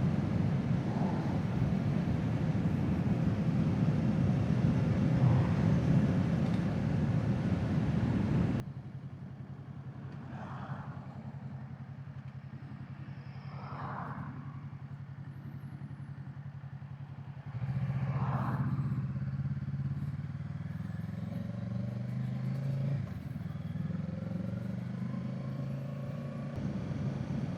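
Kawasaki Z650 parallel-twin engine running on the move under heavy wind noise. About nine seconds in the wind noise drops away abruptly, leaving the engine running more quietly, and at about eighteen seconds it gets louder again, the engine pitch rising as the bike accelerates.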